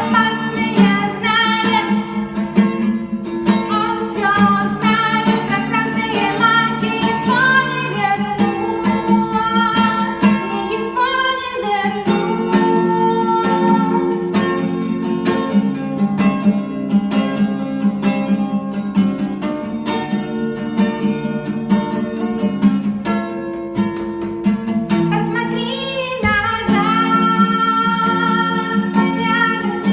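A song sung with acoustic guitar accompaniment, with a brief break near the end before the voice and guitar come back in.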